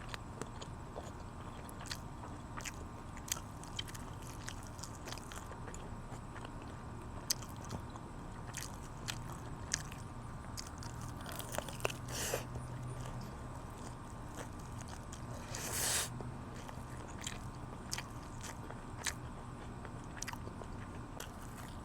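Close-up eating sounds of chicken wings being bitten and chewed: scattered sharp crunchy clicks, with two louder bursts of crunching about halfway through and a few seconds later, over a low steady hum.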